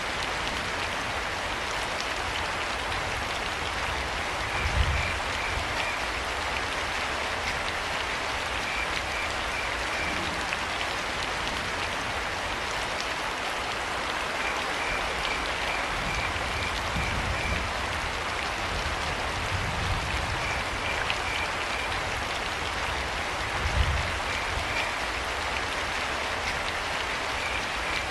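Steady rain falling, with crickets chirping in short trains of quick pulses every few seconds. Two brief low thumps, about five seconds in and near the end.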